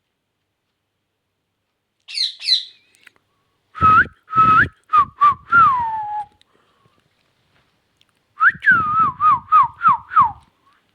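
Indian ringneck parrot giving two short high chirps, then two phrases of clear whistled notes with quick up-and-down glides. The second phrase is a fast run of falling notes.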